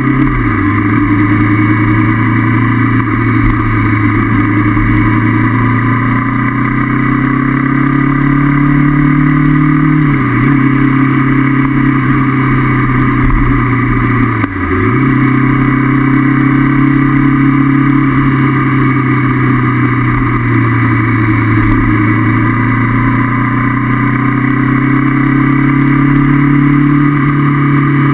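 Honda CB500F parallel-twin motorcycle engine running under way at steady revs. Its note drops sharply and comes back three times: about half a second in, about ten seconds in, and about halfway through.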